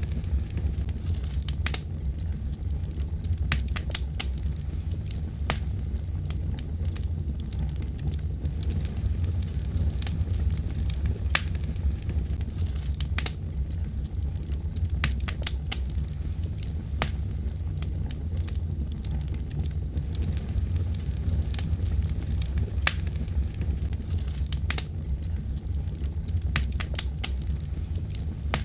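Wood fire burning with a steady low rumble and irregular sharp crackles and pops, several a second at times.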